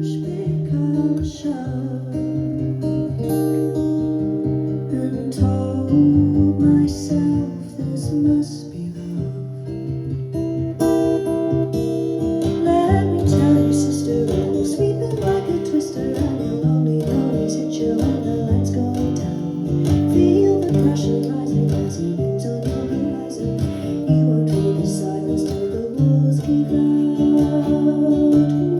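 Acoustic guitar played live, picked and strummed in a steady flowing accompaniment to a folk song.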